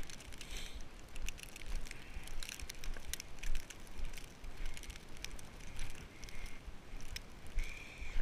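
Footsteps crunching through several inches of snow, a quick irregular series of crisp crunches, with wind buffeting the microphone.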